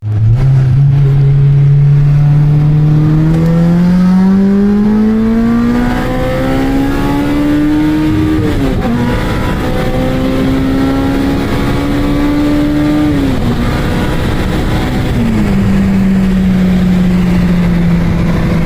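Honda K24 four-cylinder engine pulling a car under acceleration. It revs steadily higher, drops sharply about halfway through as at a gear change, and holds steady. Near the end it falls again and settles to a lower steady speed.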